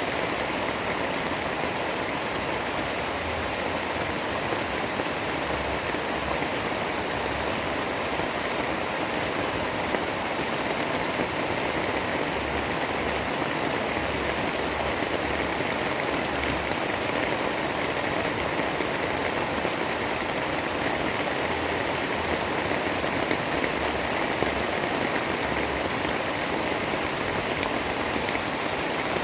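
Steady, even rushing noise of a storm ambience recording, heavy rain-like hiss with no breaks or gusts.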